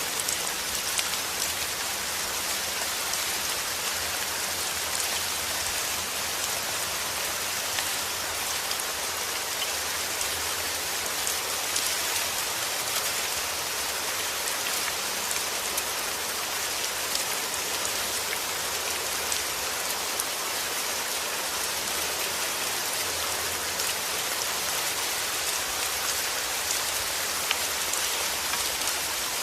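Steady rain falling at a constant rate, an even hiss dotted with individual drop ticks.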